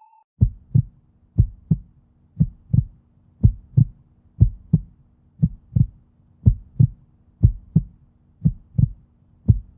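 Heartbeat sound effect: a steady lub-dub of paired low thumps, about one beat a second, ten in a row over a faint low hum.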